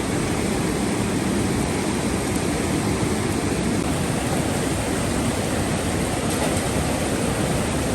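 Steady rushing of a swollen, flooded mountain river, an even wash of water noise that does not change.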